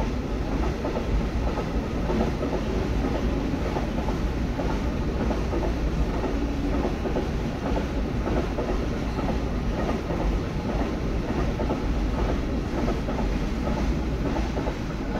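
Container freight train rolling past: a steady rumble of wagons with the wheels clacking over rail joints.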